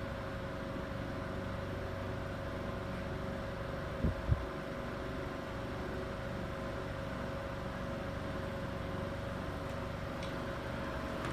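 Circa-1935 GE Quiet Blade oscillating desk fan running steadily on medium speed with a steady hum. It runs a little rough and shaky because of a bent, out-of-clock blade. Two short low thumps come about four seconds in.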